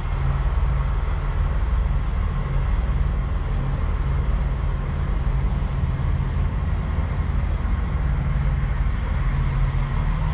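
A truck's diesel engine idling steadily, a low even rumble.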